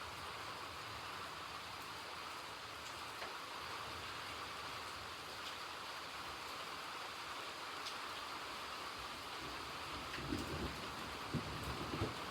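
Steady rain falling as an even hiss, with scattered faint drop ticks. In the last couple of seconds an irregular low rumble swells in and out.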